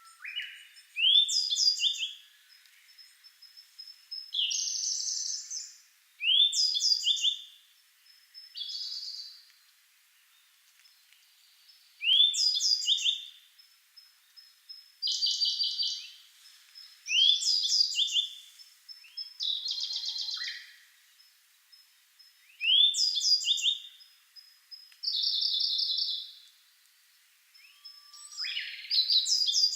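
A subadult grey bunting and a Siberian blue robin singing in turn. Their short song phrases alternate about every two to three seconds: sweeping whistled phrases take turns with dense, rapid trills.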